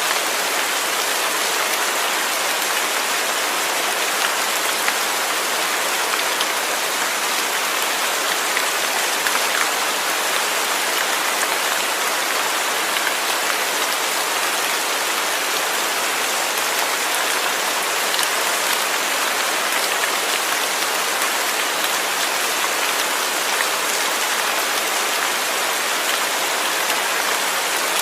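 Steady rain falling and pattering on a surface, an even dense hiss with scattered individual drops.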